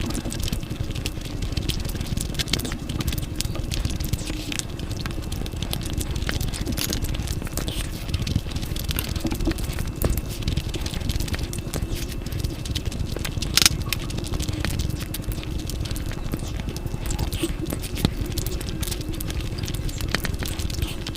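Close-miked eating sounds: mouth noises of chewing, with many small sharp clicks and crackles over a dull low rumble.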